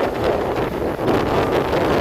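Wind blowing hard on the microphone over the steady rumble and rattling of a moving passenger train.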